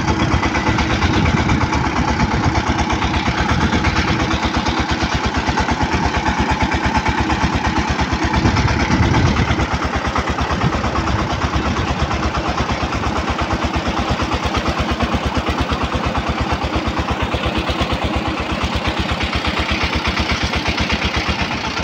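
Single-cylinder Changfa-type diesel engine of a bhotbhoti motor van running steadily, firing in an even rapid beat.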